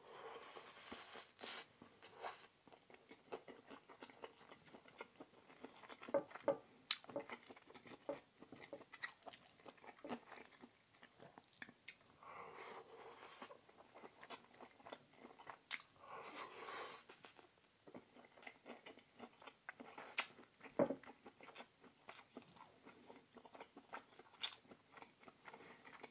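A man chewing and biting a curry-and-rice meal with roti and samosas close to the microphone. Many sharp mouth clicks and smacks run throughout, the loudest about six to seven seconds in and again about twenty-one seconds in.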